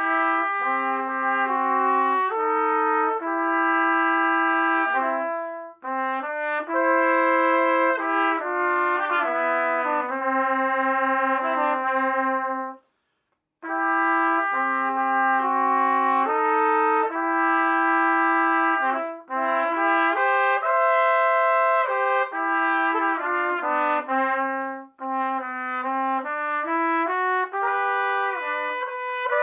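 Two trumpets playing a slow duet in two-part harmony, held notes moving together, with a brief full stop at the end of a phrase about halfway through.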